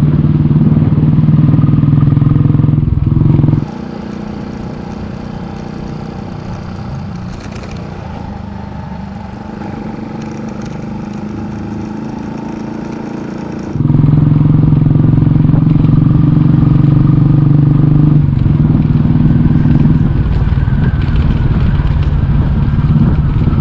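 Royal Enfield Bullet Electra 350's single-cylinder engine running steadily under way, heard with the road noise of the ride. The loud low rumble drops suddenly to a much quieter level about four seconds in and comes back just as suddenly about fourteen seconds in.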